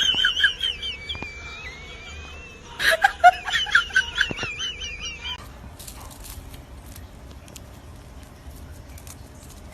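A bird's high warbling, chirping calls in two bouts, the second starting about three seconds in, followed by a few faint clicks.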